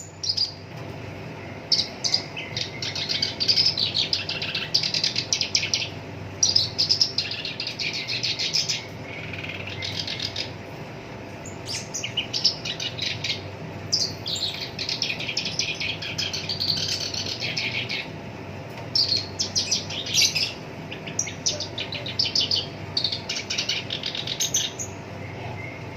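Black-browed reed warbler singing: harsh, scratchy phrases of rapid notes and rolls, each lasting a second or more, with short pauses between them. A faint steady hum lies underneath.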